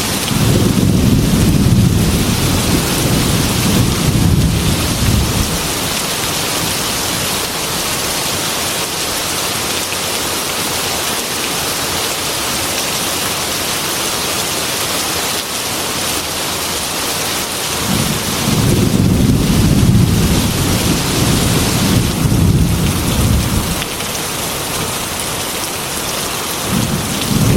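Heavy rain beating on window glass, a steady hiss, with thunder rumbling deep and long: one roll at the start lasting about five seconds, another from about eighteen seconds in lasting about six, and a third beginning near the end.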